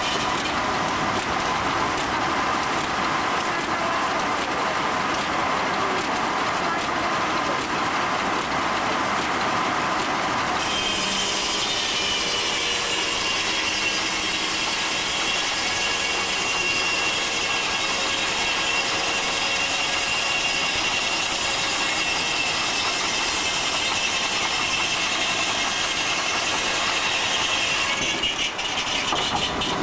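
Steam-powered sawmill running, its saw cutting through a log: a steady high whine comes in about a third of the way through and holds until near the end, over the constant noise of the mill machinery.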